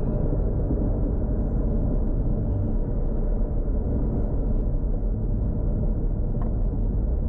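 Toyota Supra Mk4's turbocharged 2JZ straight-six running at low, steady revs while driving: a continuous low engine rumble with no revving.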